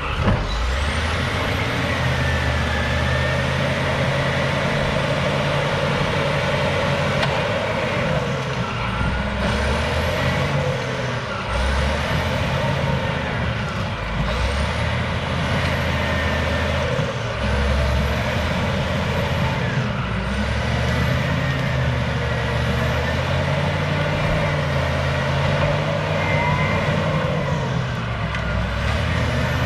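Cat D6H crawler bulldozer working, its diesel engine running steadily under load, the engine pitch rising and falling as it pushes.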